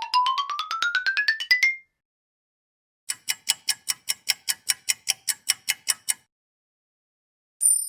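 Stock sound effects in sequence. First, a fast run of pitched clicks that rises steadily in pitch and stops about two seconds in. After a short pause, a clock-like ticking goes on for about three seconds at roughly five ticks a second, and a bright ringing starts just at the end.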